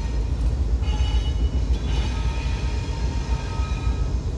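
Freight train rolling past: a steady, heavy low rumble, with faint high squealing tones coming and going above it.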